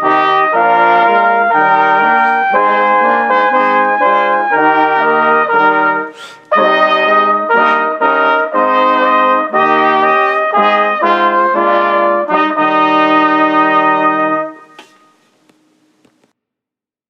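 Brass instruments, trumpets and trombones, playing sustained chords in phrases, with a brief break about six seconds in; the music stops near the end.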